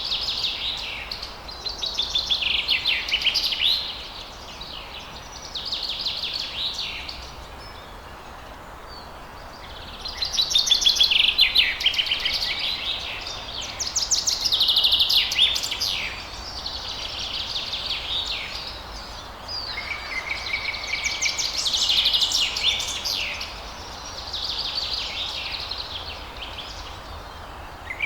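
Songbirds singing at dawn, in rapid trilled phrases of one to three seconds each with short pauses between, over a steady low background hiss.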